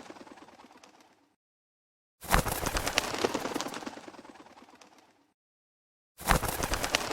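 Fire crackling in separate bursts: each one starts sharply with dense crackles and pops and fades out over about three seconds. Total silence follows each burst, and a new one starts about every four seconds, twice in this stretch.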